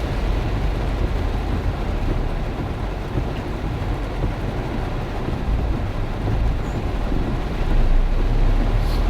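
Heavy rain falling steadily, with strong wind rumbling on the microphone.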